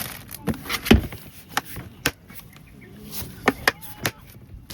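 A series of irregular sharp knocks, about nine, the loudest about a second in with a deep thud.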